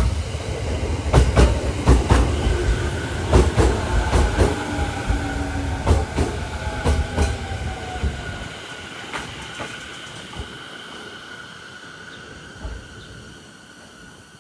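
JR 209-series electric train running along the platform, its wheels clacking over rail joints in irregular groups over a heavy rumble. A motor whine falls in pitch as the train slows, and the rumble dies away over the last several seconds.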